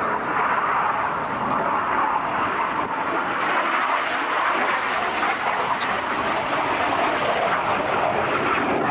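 BAE Hawk T1 jets' Adour turbofan engines heard from the ground during a display pass: a loud, steady rushing jet noise.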